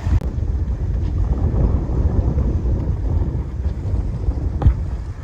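Wind rumbling on the microphone aboard a sailboat under way, a steady buffeting low rumble. A single sharp knock sounds near the end.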